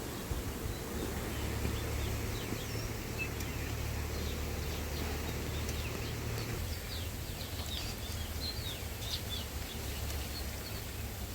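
Small birds chirping and twittering in many short, quick notes, over a low steady rumble of wind on the microphone.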